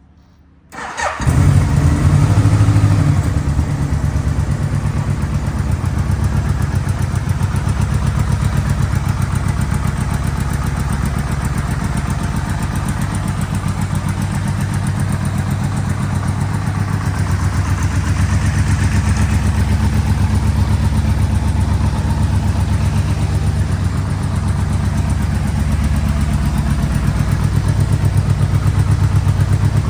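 1989 Yamaha VMAX 1200's V4 engine starting from cold about a second in. It catches at once, runs a little louder for the first couple of seconds, then settles into a steady, pulsing idle.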